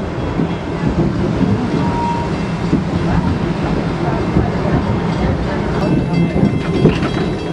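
Passenger train riding along its track, a steady rumble of wheels on the rails heard from aboard the car.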